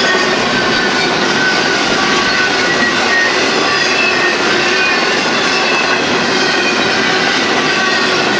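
Union Pacific intermodal stack train's empty flatcars and well cars rolling past at speed: a steady, loud rumble and clatter of wheels on rail, with faint high wheel squeal wavering over it.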